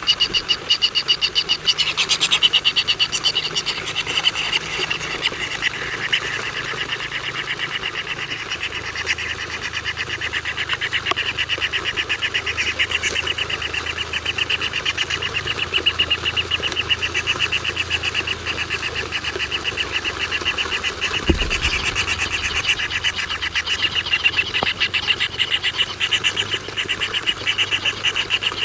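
Animal calling in a rapid, even train of pulses, many to the second, going on without a break. A single low thump comes about 21 seconds in.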